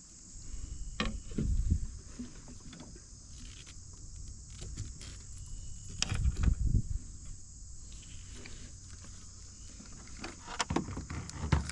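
Steady, high-pitched insect chorus of crickets, with a few low thumps and knocks about a second in, around six seconds in and near the end.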